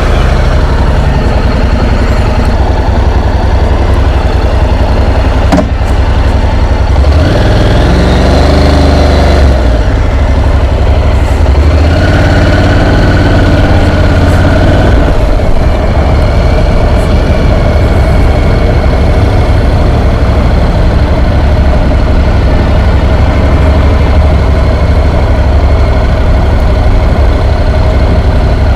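Honda NC750X motorcycle's parallel-twin engine running steadily after starting, with the revs rising about eight seconds in as the bike pulls away.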